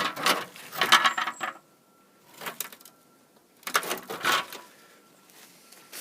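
Metal clinking and rattling in three short bunches of quick sharp clatters, the first and last the loudest.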